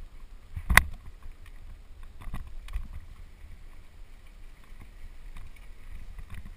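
Wind rumbling on the microphone during a descent down a dirt trail, with scattered rattles and clicks and one sharp loud knock a little under a second in.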